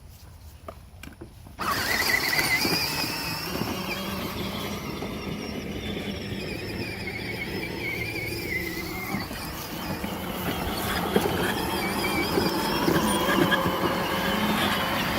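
Power Wheels battery-powered ride-on's electric motor and plastic gearbox whining as it drives, starting suddenly about a second and a half in and running on with a wavering high whine over a low hum.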